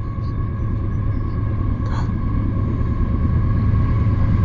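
Freight train approaching: a low rumble growing steadily louder, with a steady high-pitched whine over it.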